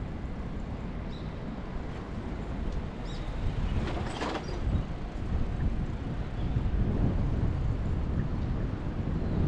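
Steady low rumble of city traffic mixed with wind on the microphone of a moving bicycle, with a brief hiss about four seconds in.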